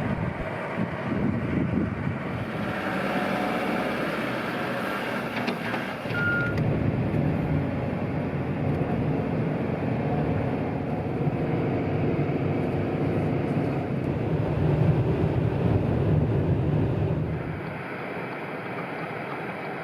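A vehicle's engine running steadily, with a short beep about six seconds in. The sound drops and thins out near the end.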